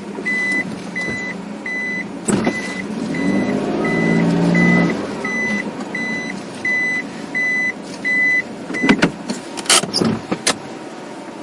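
Electronic reversing-style beeping, short high beeps repeating about every 0.7 s, over a whirring motor that rises and then falls in pitch midway. The beeping stops about nine seconds in, followed by several sharp clicks.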